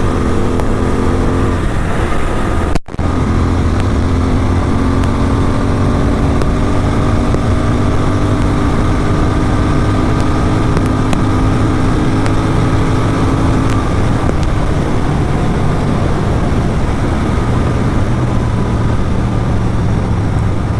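Motorcycle with an aftermarket Atom exhaust running steadily at highway speed, its exhaust note held under a heavy low rumble, with a brief dropout about three seconds in.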